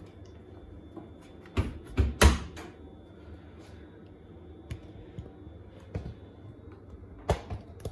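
A few sharp clunks and knocks from a front-loading Beko WTK104121A washing machine being handled, loudest as a double knock about two seconds in, of the sort made by its door or detergent drawer being shut. A lighter knock comes near the end.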